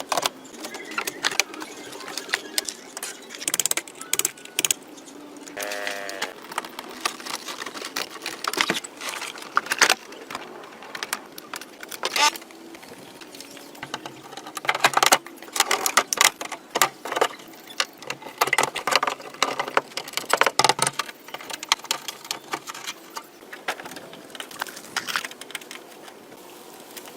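Metal clattering and knocking: many irregular sharp knocks and jangles of tools and parts being handled, with a brief squeak about six seconds in.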